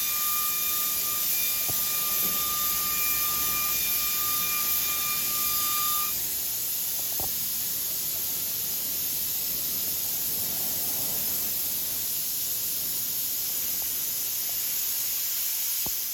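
Compressed-air paint spray gun hissing steadily while base coat is sprayed onto a car's engine bay. A thin whistle runs with the hiss for about the first six seconds, then stops and the hiss eases slightly.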